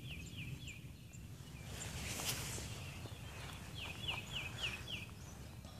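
A songbird singing two quick runs of about five short, falling notes, one near the start and one about four seconds in, over a low outdoor background. There is a brief rustle about two seconds in.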